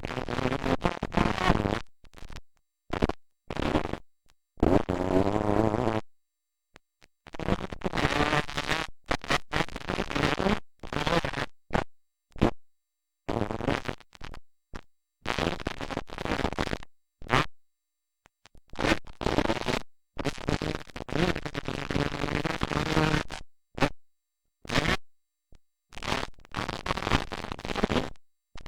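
Motocross dirt bike engines revving up and down, the sound repeatedly cutting out to dead silence for fractions of a second.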